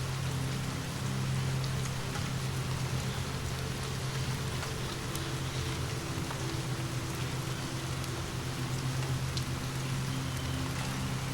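Steady rain falling, an even hiss with scattered faint drop ticks, over a low steady drone.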